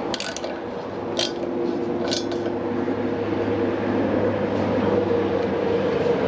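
A few sharp metallic clicks from hand tools being worked on a small engine, over a steady mechanical hum.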